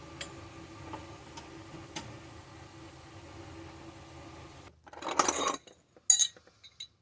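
Light metallic clinking and clatter, like tools being handled: a few faint clicks over a low steady hum, then two short, louder bursts of clatter near the end.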